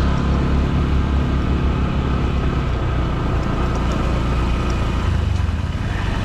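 Motorcycle engine running steadily while the bike is ridden, a low engine note with a pulsing beat that becomes more distinct near the end.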